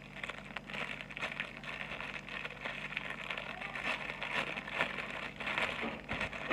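Thin plastic packaging rustling and crinkling in irregular bursts as it is handled and opened, over a faint steady hum.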